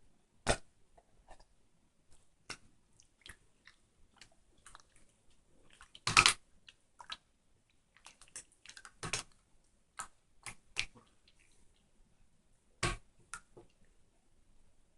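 Irregular small clicks and taps, with a louder crackly cluster about six seconds in and single louder knocks near nine and thirteen seconds.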